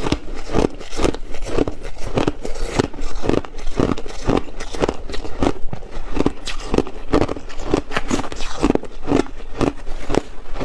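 Ice being bitten and chewed: a continuous run of crisp crunches, several a second.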